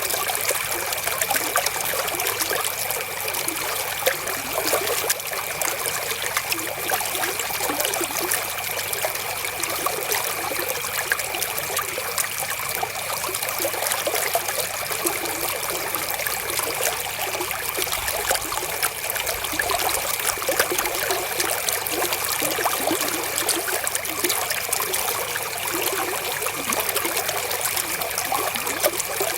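River water flowing and trickling over rocks, a steady, unbroken splashing.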